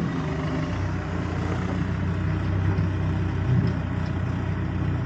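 A motor vehicle's engine running steadily, a low even hum that does not rise or fall.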